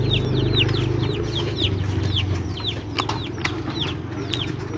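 Birds chirping over and over: short high calls, each falling in pitch, two or three a second, over a low steady hum. A couple of sharp clicks come about three seconds in.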